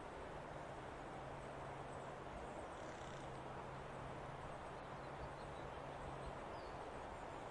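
Steady, faint outdoor forest ambience: an even hiss of air and leaves, with a low steady hum through most of it that stops about six seconds in, and a few faint high chirps.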